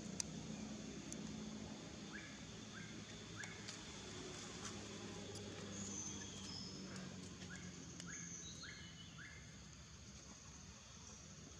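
Faint outdoor ambience of birds calling: short rising chirps in runs of three or four, a few higher whistles and scattered clicks, over a low steady hum.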